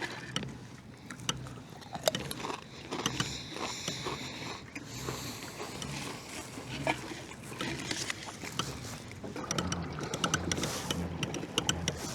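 Pedal drive of a Native Watercraft Slayer Propel 10 LTE fishing kayak making an odd noise while being pedaled: irregular clicks and knocks over a low rumble that gets stronger near the end. The owner does not know what is causing the noise.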